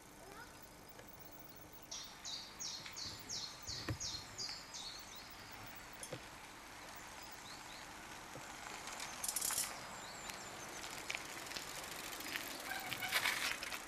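A songbird sings a phrase of about eight quick, evenly repeated high notes over a steady outdoor hiss. Later come a few short rustling, crunching noises, the loudest near the end.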